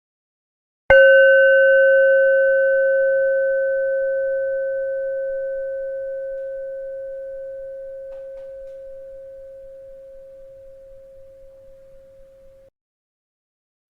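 A bell struck once, ringing with a steady tone and a few higher overtones that fades slowly over about twelve seconds, then cuts off abruptly. It is struck again right at the end.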